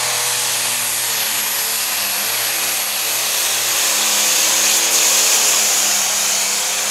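Modified John Deere pulling tractor running flat out under load, a loud steady engine noise with a thin high whistle over it that swells a little midway.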